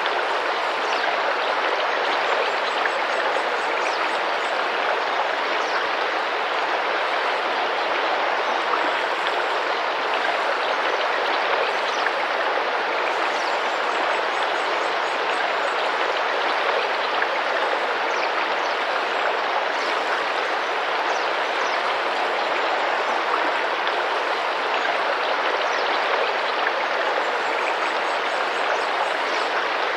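Tropical rainforest river running steadily with gentle splashing water, a constant even rush. Faint short high bird chirps come through now and then.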